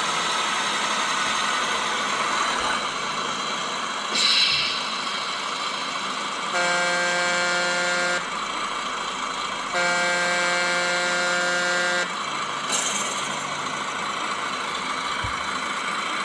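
Beier sound module in an RC Mercedes Arocs 6x6 truck playing a running truck diesel engine, with two long air horn blasts in the middle, each about two seconds. A short hiss sounds once before the horns and once after them.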